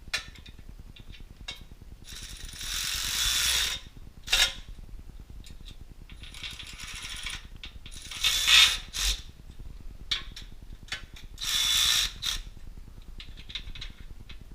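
Hand ratchet wrench snugging the winch's mounting nuts before they are torqued: about four runs of ratcheting, each about a second long, with single clicks and knocks between them.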